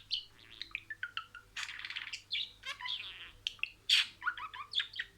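Budgerigar chattering: a fast run of short chirps, warbles and harsh buzzy squawks, loudest about four seconds in.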